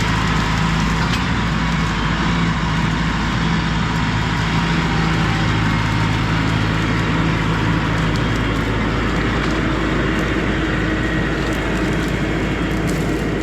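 LS MT4X tractor's diesel engine running steadily, working a grapple; its tone shifts about two-thirds of the way through.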